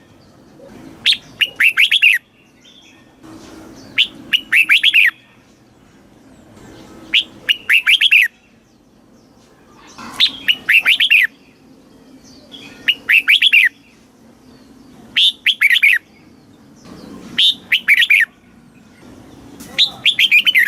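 Red-whiskered bulbul singing one short whistled phrase over and over, about eight times, every two to three seconds. Each phrase is a quick run of several bright notes.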